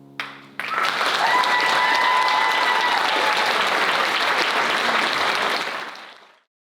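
Audience applauding at the end of a song: the clapping starts sharply, runs loud and even, then fades and cuts off shortly before the end. A couple of held high notes sound over the clapping early on.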